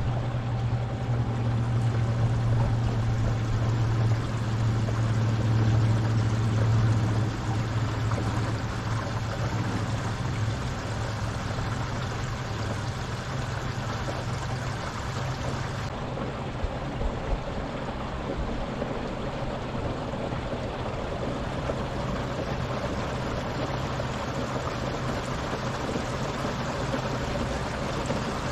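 Torqeedo 1103 electric outboard pushing a small canoe-type boat along at cruising speed: a steady low motor hum, strongest for the first several seconds and then weaker, over the constant rush of water along the hull.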